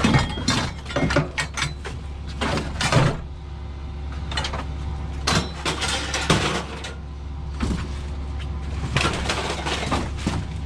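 Scrap metal clattering and banging as it is handled, with repeated sharp cracks and knocks over a steady low engine hum.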